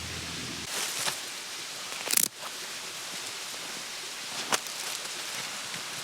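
A steady hiss with a few short, sharp rustles: about a second in, a louder one just after two seconds, and another around four and a half seconds.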